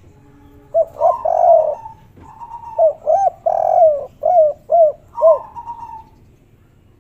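Spotted dove cooing the three-note 'kuk 3' song type: a run of short rising-and-falling coo notes in quick succession from about one second in to five and a half seconds in.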